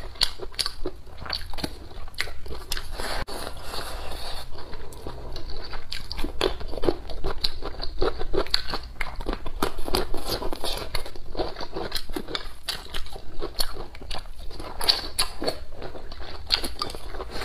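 Close-miked chewing and crunching of food, a dense run of quick, irregular crunches and clicks.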